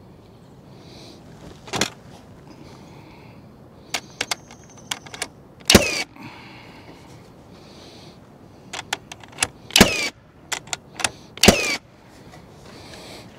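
Carpentry knocks and clatter on wooden deck framing: a run of sharp clicks and taps with three loud impacts, each ringing briefly.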